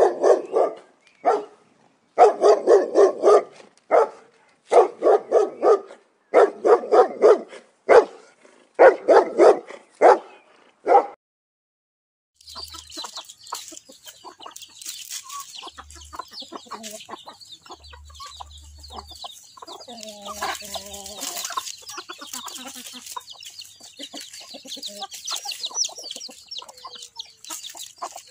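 Ducks quacking in repeated runs of four or five quacks for about eleven seconds. After a short gap, a flock of chickens clucking, quieter and more continuous.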